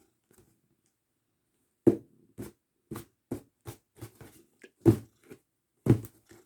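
A cat at play making a series of sharp taps and scratches, about a dozen, irregularly spaced, starting about two seconds in.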